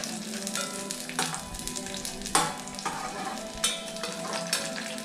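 Onion slices sizzling in hot oil in a small enamel pot, with a steady hiss. A spoon stirs them and knocks against the pot about four times.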